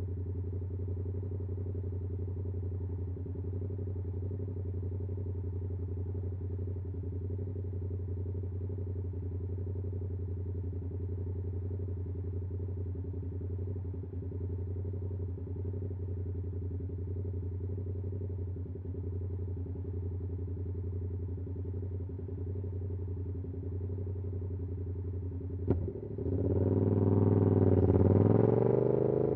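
Yamaha R7's 689cc parallel-twin engine with an SC-Project CR-T exhaust idling steadily. Near the end there is a sharp click, then the revs and volume climb as the bike pulls away.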